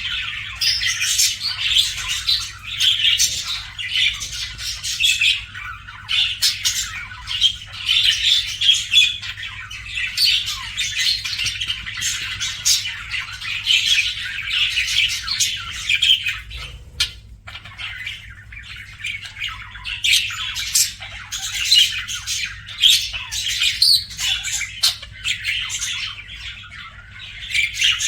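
Budgerigar chirping and chattering, a dense run of quick high chirps and squawks with a brief lull about two-thirds of the way through.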